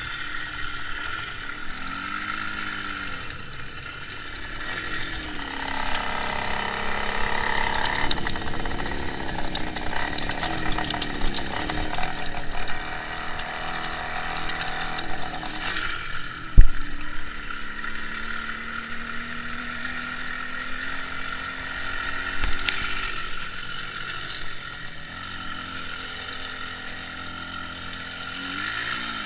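IZH Jupiter 5 motorcycle's two-stroke twin engine running on the move, its pitch rising and falling several times with throttle and gear changes. A single sharp knock comes a little over halfway through.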